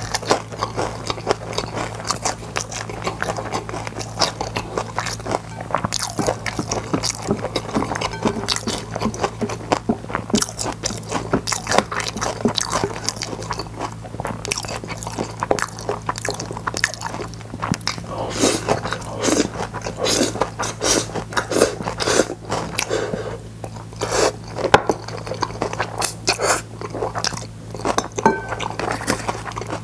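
Close-miked chewing of crispy fried seaweed chips (gim-bugak), with a steady stream of small crunches and crackles. A steady low hum runs underneath.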